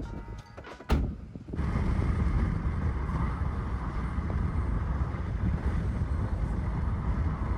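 Steady low rumble and hiss of a vehicle in motion, heard from inside. It starts about a second and a half in, after a short tail of music that ends with a sharp click.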